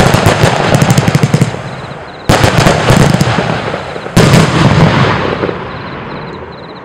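A 259-shot fireworks compound battery firing: a rapid volley of shots that ends about one and a half seconds in, then two single loud bangs about two seconds apart, each dying away slowly.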